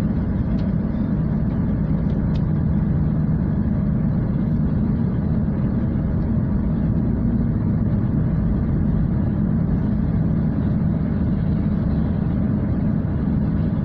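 Car driving along a road, heard from inside the cabin: a steady low drone of tyre and engine noise.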